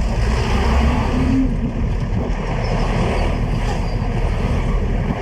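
Steady diesel engine and road noise of a local bus, heard from inside the bus, with a strong low rumble.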